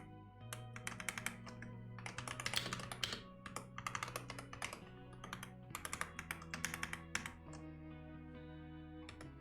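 Typing on a computer keyboard in quick runs of keystrokes, with a pause of about a second and a half near the end, over soft background music of long held chords.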